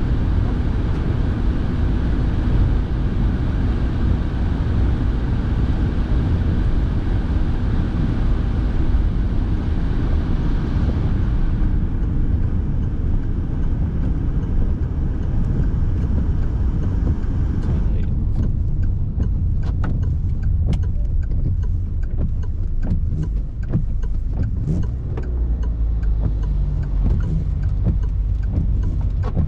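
Steady low rumble of a car's engine and tyres heard from inside the cabin while driving on rain-wet roads, with a hiss over it. The hiss eases about a third of the way through and drops away past the middle, leaving the rumble with faint, irregular light ticks.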